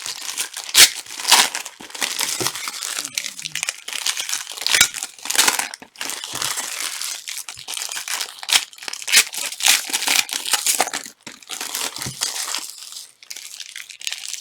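Wrappers of Panini Prizm soccer card packs crinkling and tearing open, in a long run of crackly rustling broken by sharp crackles.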